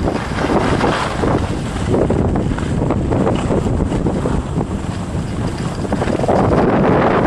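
Strong wind buffeting the microphone of a moving skier, a dense, uneven rush with surges in loudness, the loudest about six to seven seconds in.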